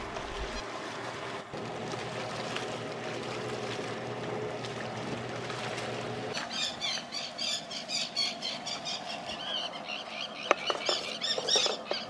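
Small birds chirping over and over in short, high notes from about six seconds in, after a steady low hum. A few sharp clicks come near the end.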